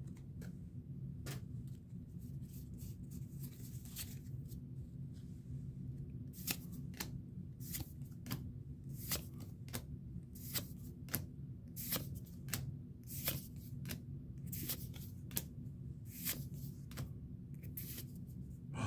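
Pokémon trading cards being flipped through by hand, one after another, making a series of short crisp card snaps. The snaps are sparse at first and come more often after about six seconds, over a steady low hum.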